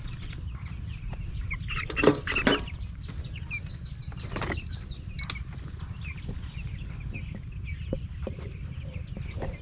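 Flock of two-week-old broiler chickens peeping, with a short burst of wing flapping about two seconds in.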